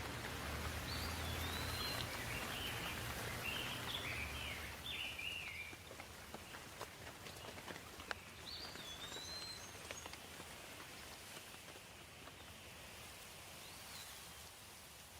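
Steady rain with scattered drip ticks, getting softer about five seconds in. A bird chirps several times in the first few seconds and once more about nine seconds in.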